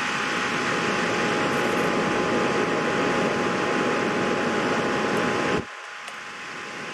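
Steady whooshing machine noise with a faint steady whine, like a fan running, that drops away abruptly about five and a half seconds in.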